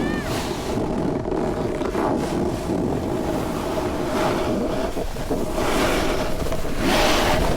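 Snowboard sliding over snow on a downhill run, the board's edge scraping with wind rushing over the microphone; the scrape swells in the middle and again near the end.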